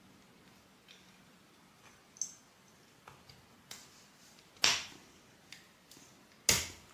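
Sharp clicks and knocks of Suzuki GT250 front brake caliper parts being handled and pressed into place: a few faint ticks, then two louder clicks, one about two thirds of the way through and one near the end.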